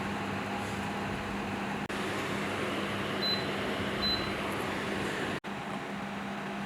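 Steady machine hum with rushing air noise, typical of electric fans or motors running. There are two short high beeps about three and four seconds in, and the sound drops out for an instant just after five seconds.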